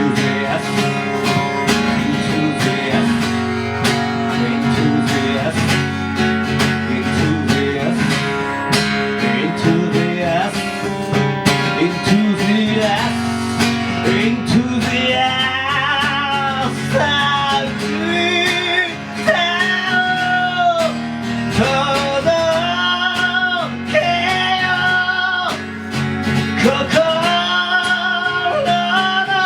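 Band music playing an instrumental passage between verses: guitars over drums and bass. About halfway through, a high lead melody comes in with bending, wavering notes.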